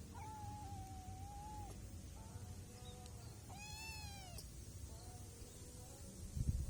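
Kitten meowing: one long, drawn-out meow, then a shorter meow that rises and falls about two seconds later, and a faint short one after it.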